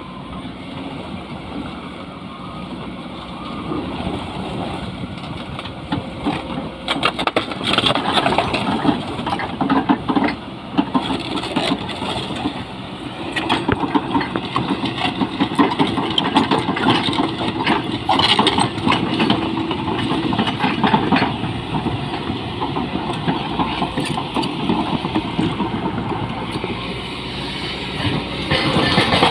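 Excavator-mounted hydraulic rock breaker hammering on rock in rapid, steady blows over the running diesel engine. The first few seconds hold mostly engine sound before the hammering starts, and the blows continue to the end.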